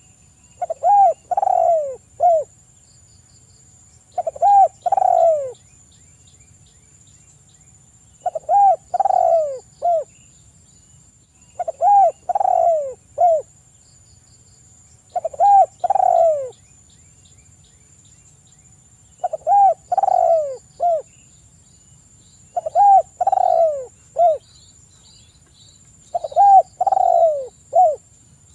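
Spotted dove (tekukur) cooing: a phrase of three or four arching coos, repeated eight times about every three and a half seconds. A faint steady high-pitched whine runs behind it.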